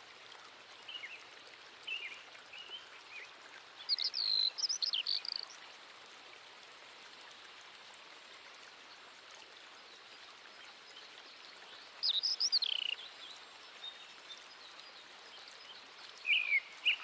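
Songbirds calling in short bursts of chirping song, about three times, over a steady high insect drone.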